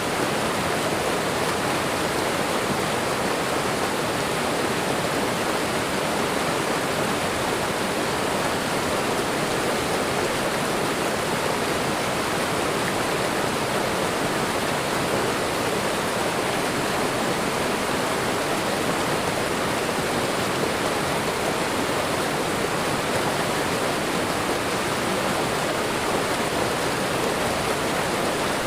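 Waterfall and running water, a steady even rush.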